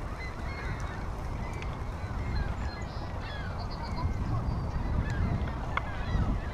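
Waterfowl calling over and over, honking calls of the goose kind, over a low rumble of wind on the microphone of a moving bicycle.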